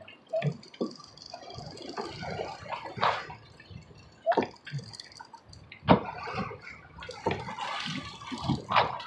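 Water splashing and dripping around a small hooked mahi-mahi being landed on a sailboat, with irregular sharp knocks. The sharpest knock comes about six seconds in.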